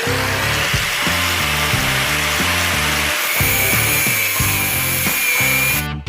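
Electric power tool spinning up and then running steadily, its pitch settling after a quick rise at the start, with a higher whine joining about three seconds in as it bites into the material. Rock music with guitar and drums plays underneath.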